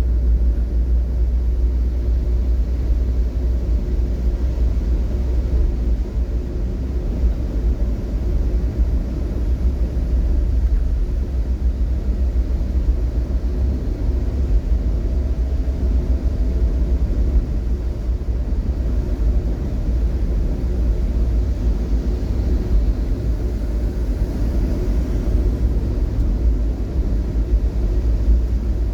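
Steady low rumble of a vehicle on the move, unchanging throughout.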